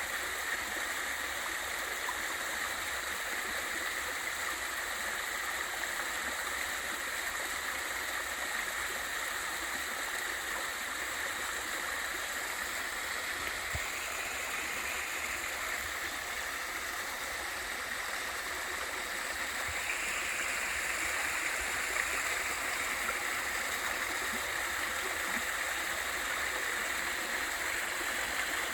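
Valley stream and waterfall: water rushing and splashing steadily, a little louder in the second half.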